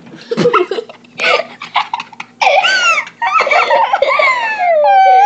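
Children laughing hard: breathy bursts building into loud, high-pitched squealing laughter from about two seconds in.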